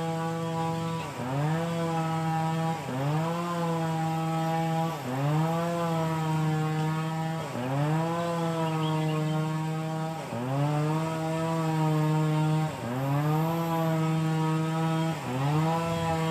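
Small petrol engine running at high speed. About every two and a half seconds its pitch drops sharply and climbs back, as if it is loaded and then recovers, seven times in all.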